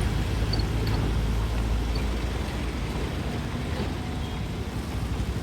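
Heavy vehicle engine running with a low rumble that slowly fades.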